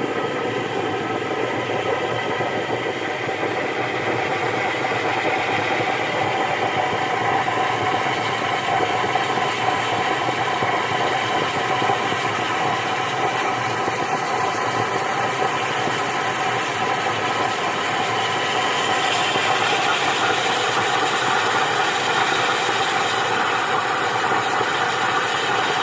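Steady droning hum with several held tones, presented as the strange sound coming out of a smoking hole in the ground.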